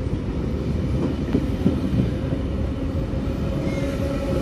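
V-set double-deck electric intercity train departing, its carriages rolling past close by with a steady low rumble and a steady hum.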